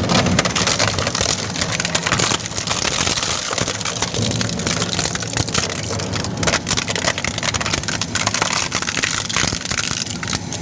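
A machine crushing and breaking up material: dense crackling and clattering over a steady low motor hum.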